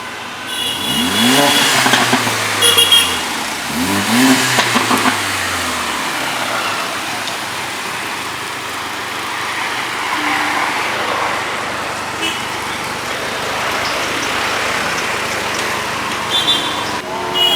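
Mercedes-AMG GLA45's turbocharged four-cylinder with a Fi aftermarket exhaust, revving up and dropping back twice in the first few seconds, with short sharp crackles as the revs fall. After that comes a steady drone of the car running along.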